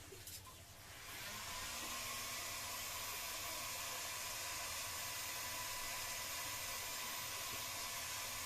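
Hot air gun switched on about a second in and blowing steadily: an even hiss with a faint whine.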